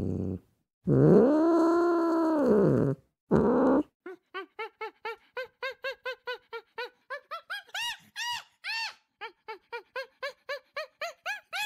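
Animal calls: a long call that rises and falls in pitch, a short call, then from about four seconds in a quick run of short arched notes, about three a second, that climb higher.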